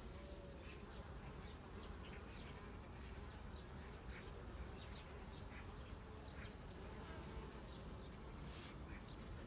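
Honeybees flying in and out at the hive entrances: a faint, steady buzzing hum that wavers as individual bees pass close. Short faint high chirps are scattered through it.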